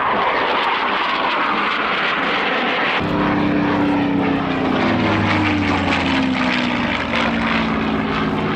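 Aircraft engines running loudly as an aircraft flies past, with a clear change about three seconds in, after which the engine tones fall slowly in pitch as it goes by.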